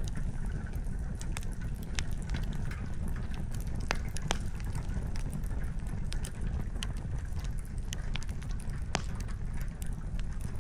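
Wood fire crackling: scattered sharp pops and snaps of burning firewood, a few each second or two, over a steady low rumble.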